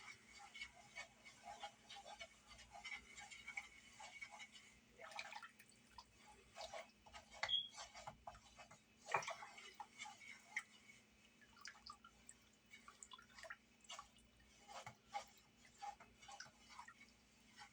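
Near silence, broken by faint, scattered, irregular ticks and clicks.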